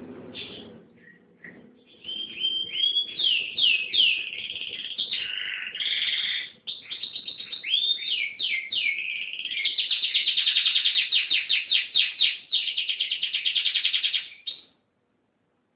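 Canary singing vigorously: a few short chirps, then a long, continuous high song of quick sweeping notes. Near the end it runs into fast trills of rapidly repeated notes, then stops abruptly.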